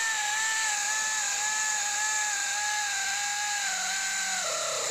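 Pneumatic air ratchet running with a steady high whine over a strong hiss of exhaust air, its pitch wavering and dipping slightly near the end before it stops.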